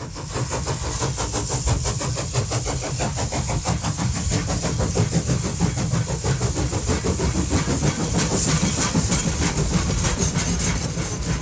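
Model train running on its track, a steady mechanical hum with rapid, even clicking and a high hiss.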